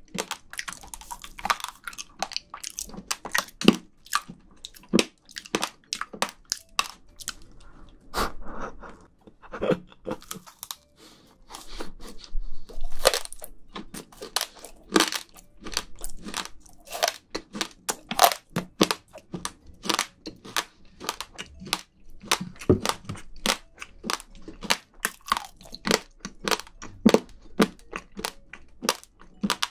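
Close-miked crunchy chewing: sharp, irregular crunches, a few a second, as the bristles of an edible cleaning-brush treat are bitten and chewed.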